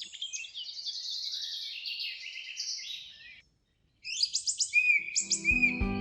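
Songbirds chirping and trilling in quick high phrases. The sound cuts out completely for about half a second past the middle, then birdsong resumes, and soft background music with sustained notes comes in near the end.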